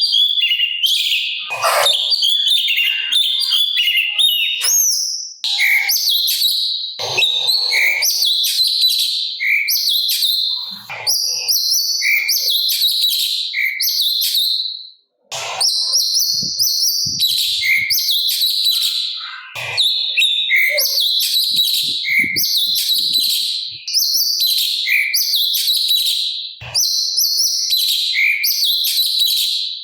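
Cucak cungkok singing nonstop in a fast, high-pitched chattering song, with a lower note repeating about once a second. There is a brief break about halfway through.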